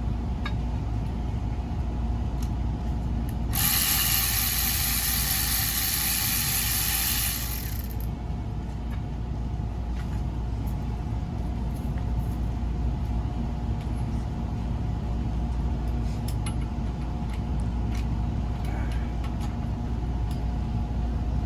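Hand tools working on an engine, a ratchet wrench clicking in scattered runs over a steady background hum. A loud hiss runs for about four seconds, starting about three and a half seconds in.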